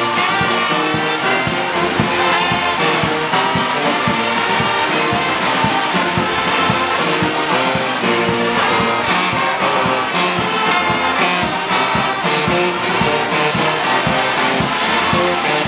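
Brass band music playing a parade march without pause, with trumpets and trombones holding and stepping through notes.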